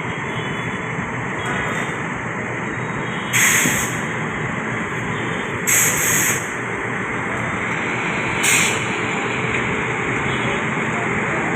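Ahmedabad Rajdhani Express train running with a steady rumble. Three short hisses of air about three and a half, six and eight and a half seconds in, typical of air brakes being applied.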